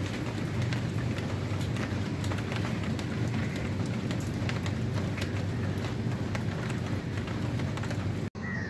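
Steady rain falling on a swimming pool and open water, with many small drop splashes over a low rumble. It cuts off suddenly near the end.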